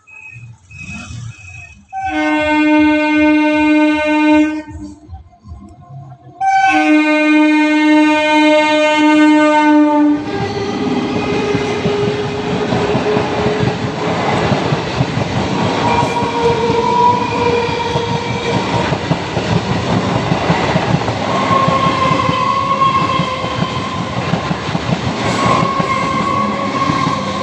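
Indian EMU local train's horn sounding two long blasts, then the train running past with wheels rumbling and clickety-clack over the rail joints and a faint steady motor whine.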